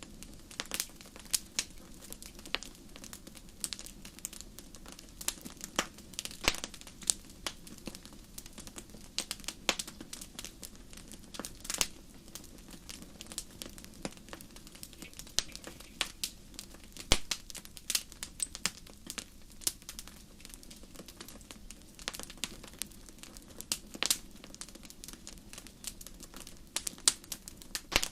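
Wood fire in a fireplace crackling, with irregular sharp pops of varying loudness over a steady low background of the burning.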